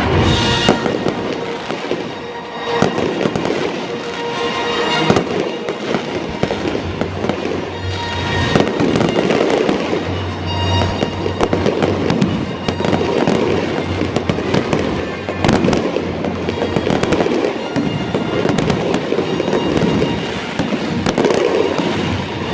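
Fireworks display: a continuous barrage of bangs and crackling bursts, with music playing underneath.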